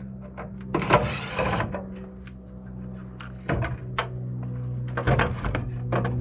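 Tools and metal parts being handled while an air-conditioning unit is taken apart for scrap: scattered clicks and knocks, with a brief harsh scrape about a second in, over a steady low hum.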